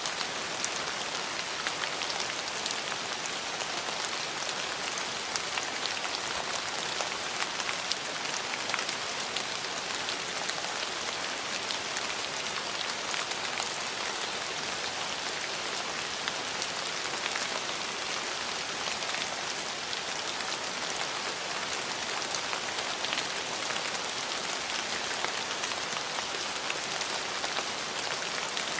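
Steady rain falling, an even hiss of rainfall with many small drop ticks scattered through it.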